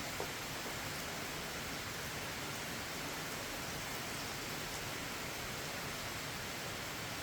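Steady rain falling, an even hiss, with one light tick about a quarter second in.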